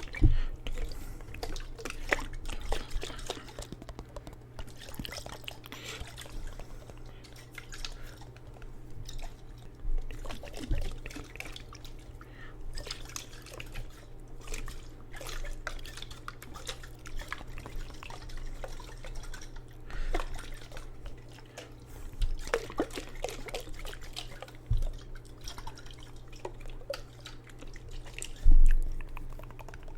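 Water in a jar dripping and splashing in small scattered bursts, with a few louder handling thumps; the loudest comes near the end.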